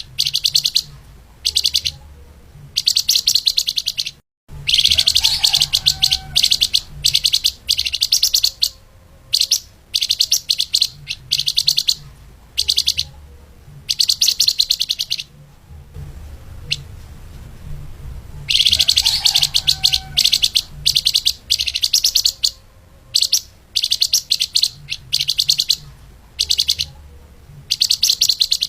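Flamboyan (lemahan) songbird singing its fast, tightly packed song: repeated bursts of rapid high-pitched chirps, each a second or two long, separated by short pauses. A faint low hum runs underneath.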